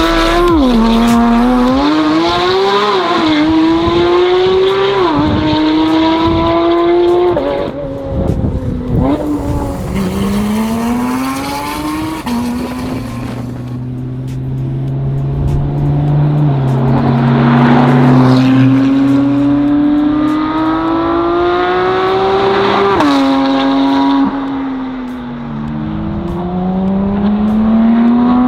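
Porsche 992 GT3 RS's naturally aspirated 4.0-litre flat-six, breathing through ARMYTRIX de-catted headers and a titanium valvetronic exhaust, pulling hard through the gears. The pitch climbs, drops at each upshift and climbs again, several times over, with a steadier stretch near the middle.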